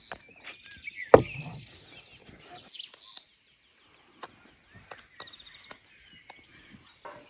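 Small birds chirping, with scattered light clicks and one sharp knock about a second in.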